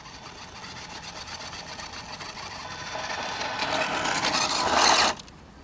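A scraping, hiss-like noise with no steady pitch that swells steadily louder and then cuts off suddenly about five seconds in.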